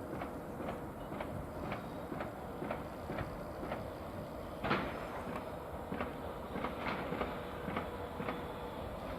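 Container wagons of a departing freight train rolling slowly past, their wheels clicking over rail joints about twice a second over a steady rumble. A louder clank comes about halfway through.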